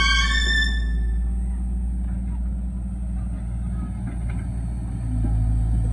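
An engine running with a steady low drone. It opens with a brief high tone that fades within the first second.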